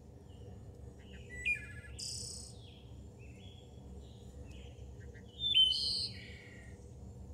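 Birds chirping and calling in short, high phrases, loudest about one and a half seconds in and again around five and a half seconds in, over a faint low steady hum.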